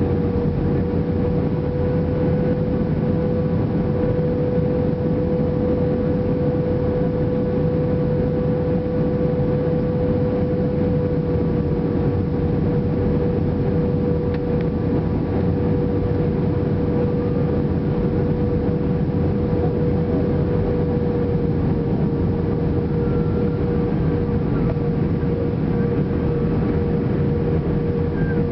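Airbus A320 airliner noise: a steady rumble of engines and rushing air with a constant tone running through it, which drops slightly in pitch about halfway through.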